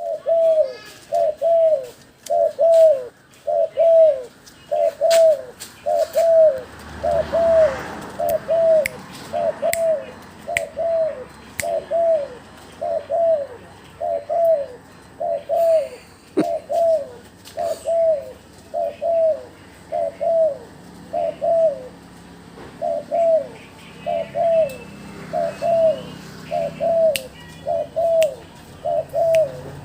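Dove (burung balam) cooing in a long, steady series, about one coo a second, each a short falling note, with a short pause a little past the middle.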